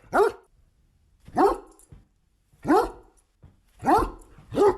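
An angry dog barking: five sharp barks, each rising in pitch, about one every second, with the last two coming closer together.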